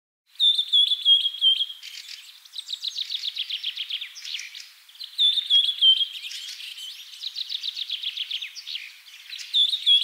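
A songbird singing: a short run of high, falling chirps followed by a rapid trill, the phrase repeated about three times.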